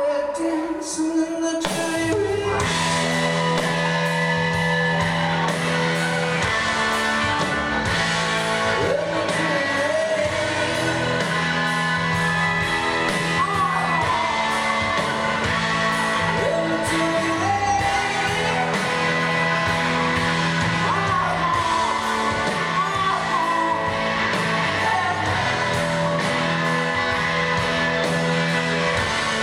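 Live rock band playing an instrumental passage: a lead electric guitar bends notes up and down over sustained chords and a steady drum beat.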